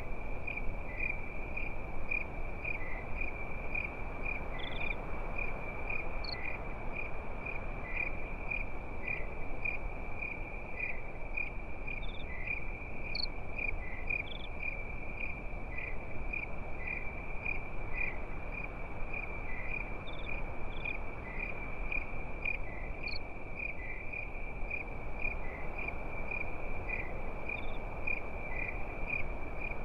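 Crickets chirping in a steady, even rhythm of high chirps over a low, even background rush, with a few brief higher insect chirps now and then.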